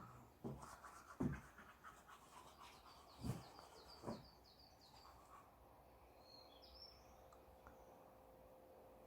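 Faint birdsong: a quick run of repeated high chirps, then a short call, after a few soft knocks.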